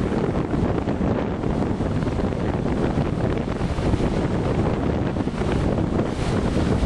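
Storm-force blizzard wind buffeting the microphone: a steady low rumble, with gusts bringing a louder hiss near the end.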